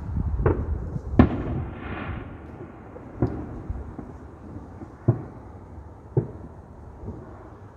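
Fireworks exploding: about six sharp bangs spaced a second or two apart over a low rumble, the loudest about a second in.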